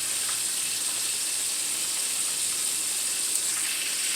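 Chicken wings deep-frying in hot oil in a wok: a steady sizzle.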